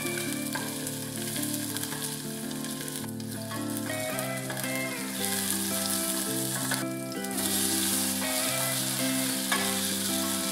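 Spring onion whites sizzling in hot oil in a stainless steel saucepan, stirred with a wooden spoon; the sizzle grows louder about halfway through. Background music plays along with it.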